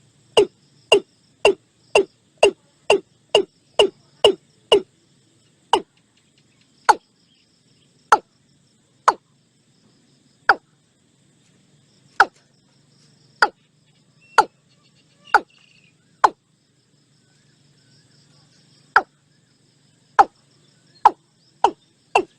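Watercock calling: a series of short, sharp notes, about two a second for the first few seconds, then slowing to one every second or so with gaps, and quickening again at the very end.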